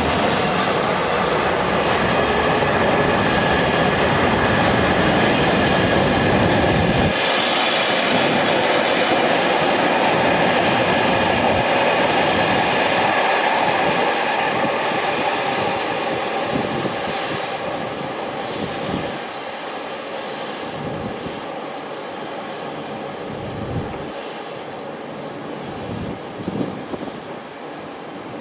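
A train running past on the line: loud wheel and running noise with a low rumble that cuts off about seven seconds in, then fading gradually through the second half with a few short clatters.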